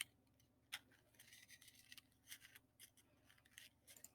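Near silence, with a few faint sharp clicks, one at the start and one just under a second in, and a faint hiss a little over a second in.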